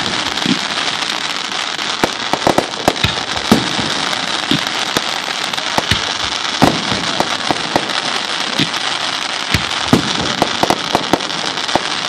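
Fireworks going off in quick succession: a dense crackling hiss broken by many sharp bangs and pops.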